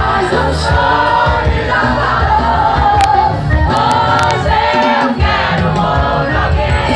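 Live band music with sung vocals and a steady bass and drum beat, with many voices singing together like an audience singing along.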